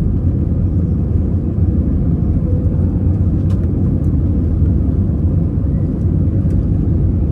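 Steady low rumble of an Airbus A320's engines and airflow heard inside the passenger cabin during the climb after takeoff, with a couple of faint ticks.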